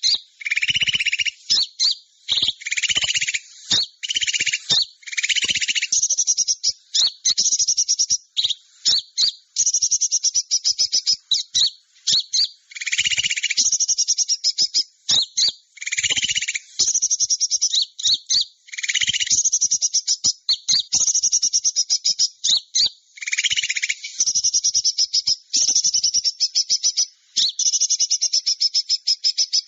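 Bird-lure recording of small songbirds calling: rapid, high chattering trills repeated with short gaps, with lower-pitched bursts about a second long every few seconds.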